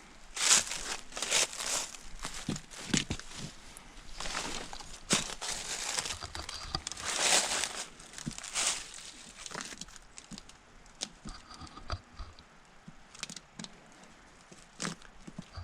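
Footsteps crunching and rustling through dry leaves and brush, an irregular run of steps that is busier in the first half and sparser near the end.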